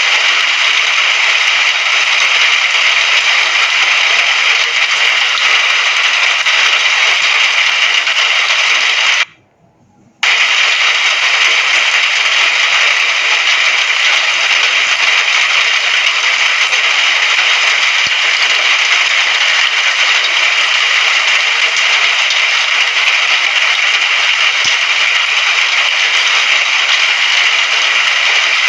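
Rain falling in a steady, dense hiss that cuts out to near silence for about a second partway through, then resumes just as before.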